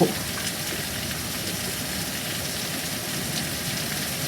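Steady rain falling during a thunderstorm, an even hiss with no thunderclap.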